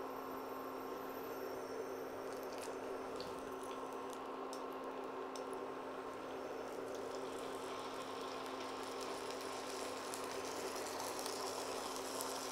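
Fish fillets frying in hot oil in a frying pan: a steady sizzle, with a steady hum beneath and a few light taps of a wooden spatula in the first few seconds.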